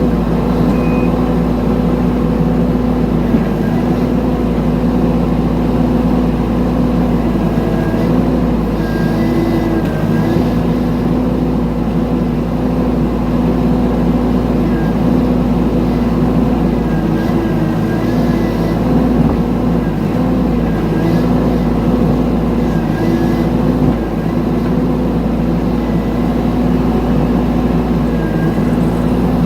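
Mini excavator's diesel engine running steadily, its pitch dipping slightly now and then. A few short beeps from its travel alarm end about a second in.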